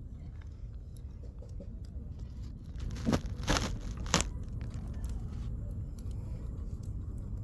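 Wood campfire crackling, with a few sharp pops about three to four seconds in, over a steady low rumble.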